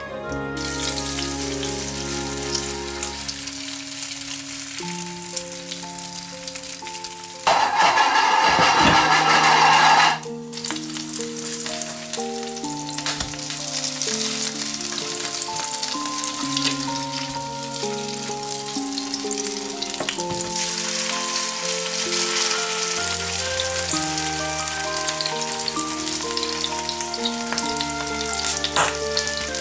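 Grated potato pancakes frying in hot oil in a nonstick pan, sizzling steadily. About a quarter of the way in, the sizzling turns much louder for about two and a half seconds. Soft background music plays along.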